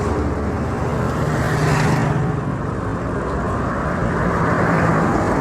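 Road traffic: a motor vehicle's engine running close by over steady street noise.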